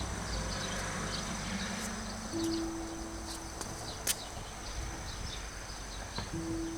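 Autumn insects, crickets among them, chirping steadily in a high continuous trill with repeated short chirps. A plain low held tone sounds twice, and a single sharp click comes about four seconds in.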